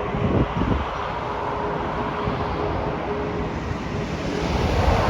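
Wind buffeting the microphone over a steady, wide rushing noise of distant aircraft and airport traffic, with a faint steady hum.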